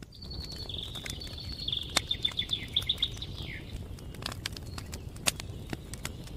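A songbird sings one phrase of rapid repeated notes for about three and a half seconds, ending on a falling note. Around it a wood campfire crackles with scattered sharp pops.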